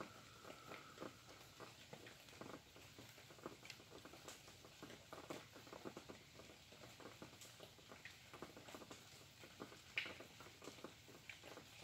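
Light rain, individual drops pattering irregularly and faintly, with one sharper drop-tick about ten seconds in.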